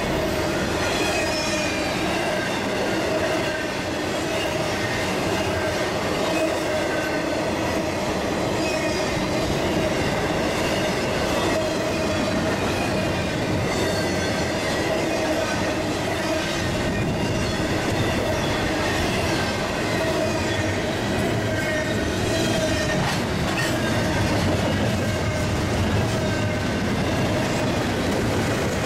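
Intermodal freight train rolling past at speed: a steady rush of steel wheels on rail, with a continuous squealing tone from the wheels riding over it.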